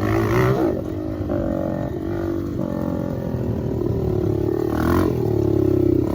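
Dirt bike engine running under throttle while being ridden. The engine note dips about a second in, then climbs and gets louder toward the end.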